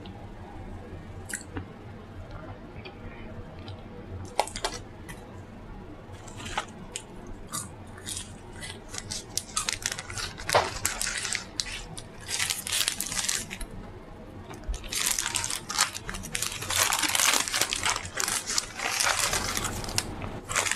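A person chewing and biting crunchy food close to the microphone: scattered crunches at first, then dense runs of crunching in the second half.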